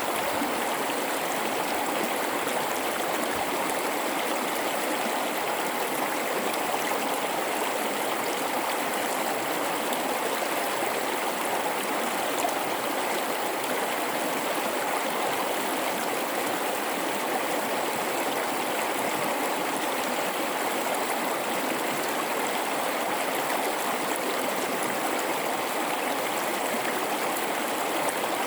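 A river flowing through a gorge: a steady, unbroken rush and babble of running water.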